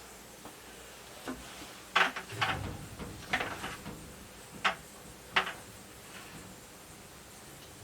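Small plumbing parts being handled: a handful of sharp clicks and light knocks, about two to five seconds in, as a clear plastic hose and its compression fitting and ring are fitted up.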